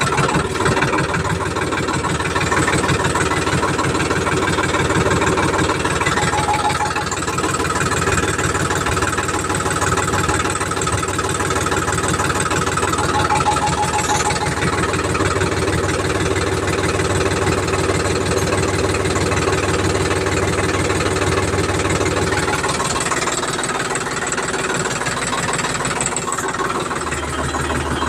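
Sonalika tractor's diesel engine idling steadily with a regular firing beat; its low note shifts near the end.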